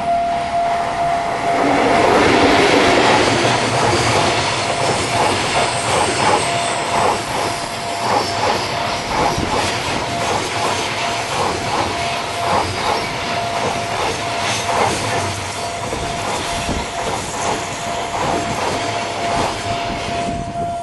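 A freight train hauled by a JR Freight EF81 electric locomotive passes close by, loudest about two seconds in as the locomotive goes past. Then a long run of freight wagons follows, their wheels clacking rhythmically over the rail joints, dropping away near the end as the last wagon passes. A steady high tone runs underneath.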